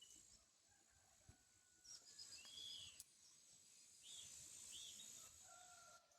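Faint rural ambience: a steady high-pitched insect drone with a few short bird chirps, and a thin whistled bird note near the end.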